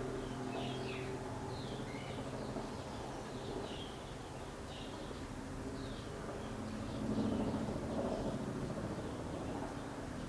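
A steady low mechanical hum, swelling a little near the end, with birds chirping repeatedly over it.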